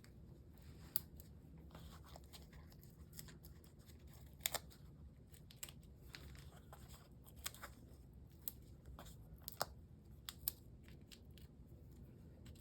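Quiet paper handling with scattered small sharp clicks and ticks, the loudest about four and a half seconds in. Foam adhesive dimensionals are being peeled from their backing sheet and pressed onto a cardstock layer.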